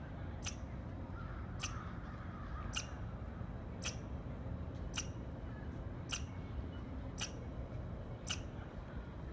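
Squirrel chirping: short, sharp, high-pitched chirps repeated evenly about once a second, eight in a row.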